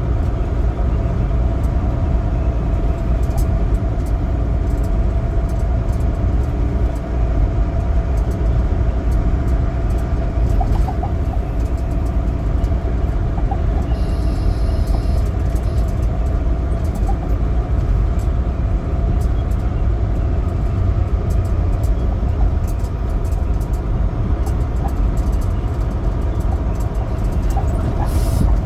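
Semi truck's diesel engine and road noise heard inside the cab while driving: a steady low rumble.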